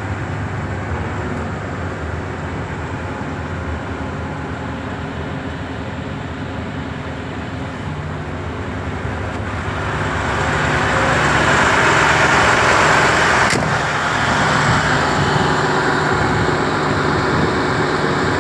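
Diesel engine of a MAN TGS 35.360 truck running steadily. About ten seconds in, a louder rushing hiss comes up and holds, with one sharp click partway through.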